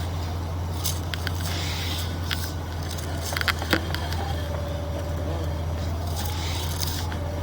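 Steady low mechanical hum with scattered clicks and light scraping, and a faint thin whine for a couple of seconds in the middle.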